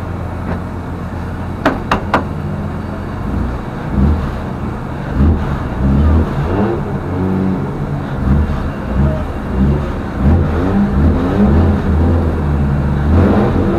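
Drift car's engine heard from inside the cabin: a steady idle at first, then revved again and again, its note rising and falling, from about three seconds in. Three sharp clicks come about two seconds in.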